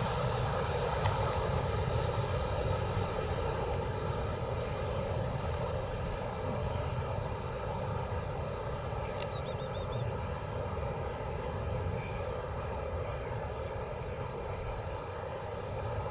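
Boeing 737-300's CFM56 turbofan engines running at low power as the airliner taxis. The engines give a steady rumble with several held tones and fade slightly over the stretch.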